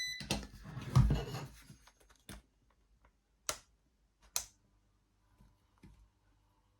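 Parkside heat gun switched on with its fan not running, giving a hiss in the first couple of seconds, then a handful of sharp pops spaced out over the next few seconds. The gun still heats but blows no air, and the owner suspects a failed capacitor.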